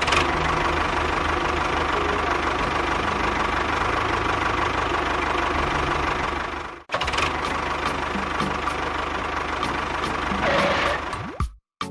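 Small motor of a DIY model tractor or construction machine running steadily, with a fast low rattle and a hum. It cuts out sharply about seven seconds in, starts again at once, and stops near the end.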